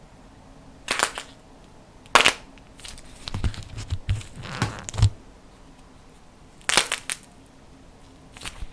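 Slime with a dried clay crust being pressed and cracked by hand: separate short crackling crunches, with a busier run of small crackles and soft low thuds about three to five seconds in.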